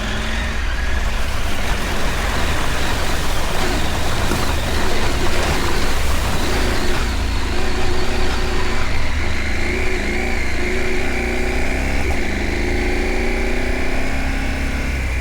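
Adventure motorcycle's parallel-twin engine running under way on a rough track, its revs climbing in the second half, over a heavy low rumble.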